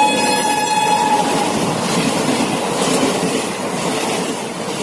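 Passenger train passing at speed close by: the locomotive's horn drops in pitch as it goes past and stops about a second and a half in, leaving the loud rumble and rattle of the coaches rushing past, slowly fading.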